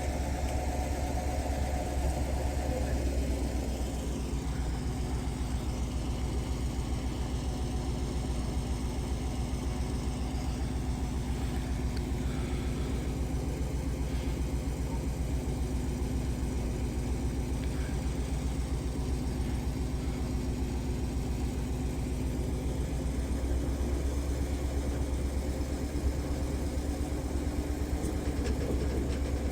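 Engine of a hydraulic aerial lift truck idling steadily, a continuous low drone.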